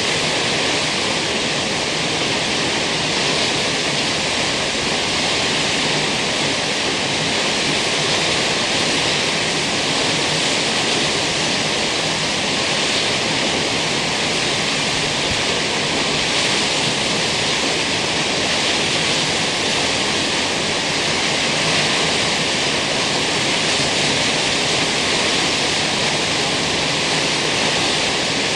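Kegon Falls' waterfall rushing, a loud, steady roar of falling water.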